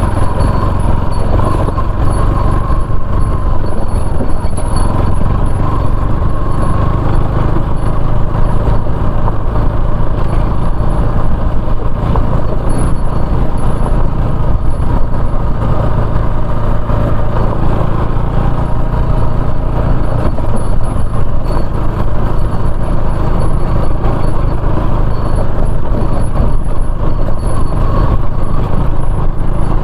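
Motorcycle running steadily while being ridden along a rough dirt road.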